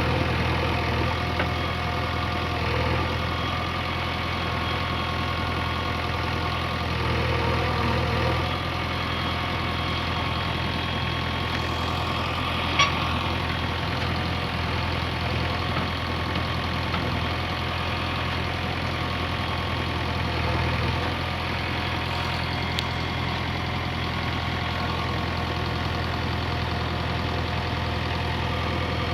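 Backhoe loader's diesel engine running steadily, swelling slightly under load a couple of times, with a single sharp clank about thirteen seconds in.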